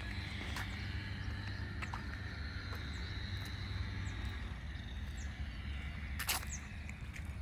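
Outdoor nature ambience on a walk: a steady high insect drone over a low rumble, with a few short sharp clicks, the loudest about six seconds in.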